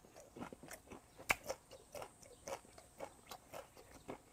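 A person chewing raw goby with the mouth closed, picked up by a clip-on mic close to the mouth: a string of soft, wet mouth clicks, about three or four a second, one sharper click a little over a second in.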